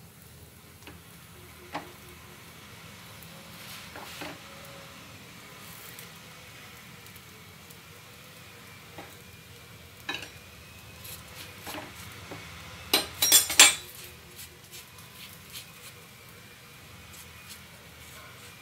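Paratha cooking on a flat griddle with faint sizzling, over a steady low hum and a few scattered light taps. About 13 seconds in comes a short, loud clatter of a utensil against the pan.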